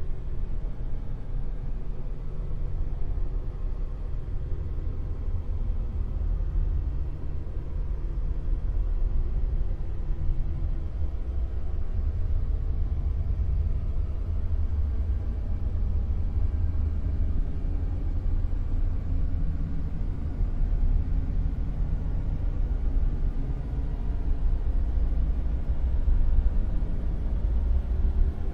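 Dark noise: a steady, deep, rumbling noise with its weight in the bass and little treble, swelling gently in loudness now and then.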